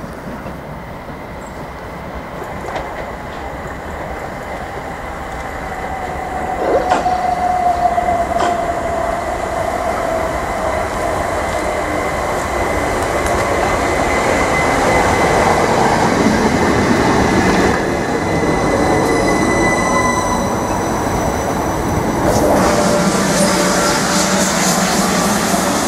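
Southern Class 377 Electrostar electric multiple unit running into the platform, getting louder as it draws alongside, with a slowly falling whine and a thin high steady squeal. A couple of sharp clacks come about seven and eight seconds in, and near the end the sound settles into a lower steady hum.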